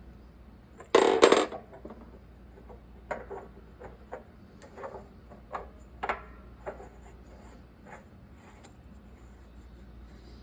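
Metal tools and fittings clattering during plumbing work: a loud double clank about a second in, then a string of lighter, irregular knocks and clinks.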